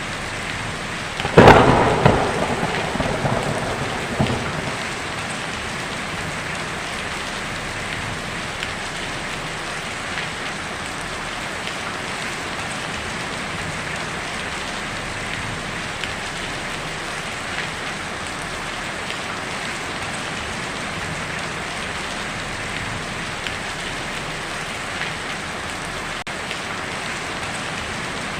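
Heavy rain drumming steadily on a tin roof. About a second and a half in, a sudden loud thunderclap cracks and rumbles away over the next few seconds, with a smaller surge before it fades.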